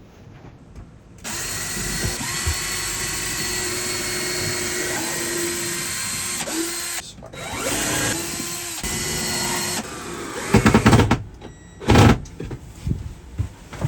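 Power drill running in a long burst and then two shorter ones, its motor pitch shifting slightly between them, followed by a few loud knocks near the end.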